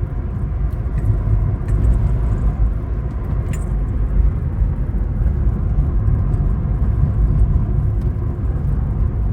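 Steady low rumble of a vehicle on the move: road and wind noise while driving.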